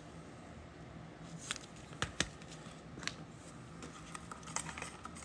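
Faint, scattered clicks and light rustling of trading cards being handled and shuffled through.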